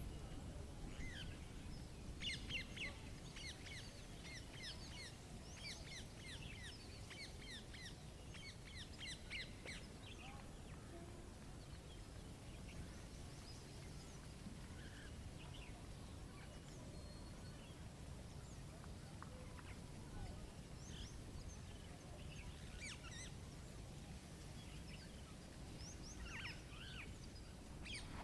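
Wild birds singing: a quick run of short falling chirps for several seconds near the start, then scattered calls, over a low, steady outdoor background rush.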